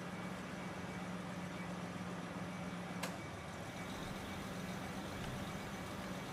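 Car engine idling, heard as a steady low hum inside the cabin, with a single sharp click about three seconds in, after which the hum shifts slightly in pitch.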